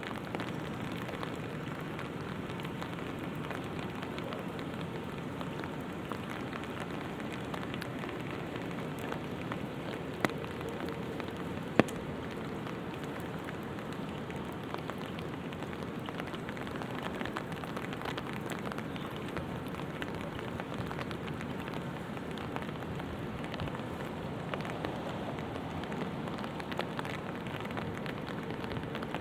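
Light rain falling steadily, with many small drops pattering on an umbrella. Two sharp, louder taps come about ten and twelve seconds in.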